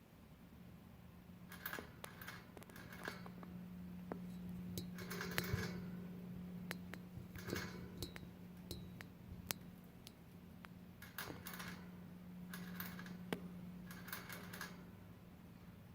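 Light clicking and rattling in short clusters, several times, typical of budgies pecking at and handling small toys in their cage, over a steady low hum.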